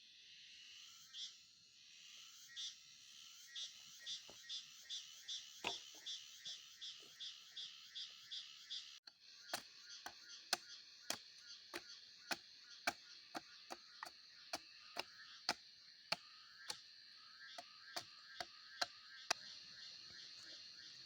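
Steady high-pitched chorus of night insects, with sharp clicks about two to three times a second. The sound cuts out for an instant about nine seconds in.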